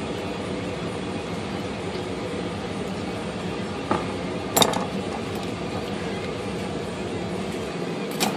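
A few sharp metallic clinks of small parts and tools being handled on an IBM Selectric typewriter during reassembly: one about four seconds in, a louder one just after, and another near the end. A steady mechanical hum runs underneath.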